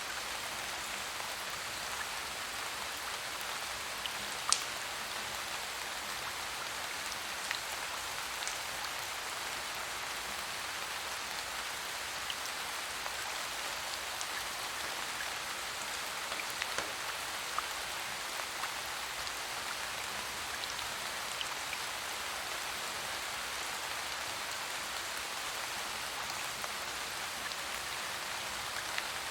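Steady rain falling, an even hiss of drops on surfaces, with a few isolated sharp ticks, the loudest about four and a half seconds in.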